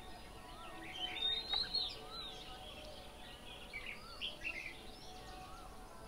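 Several birds calling and chirping, busiest about a second in, with a soft rising-and-falling whistle repeating every second or two underneath.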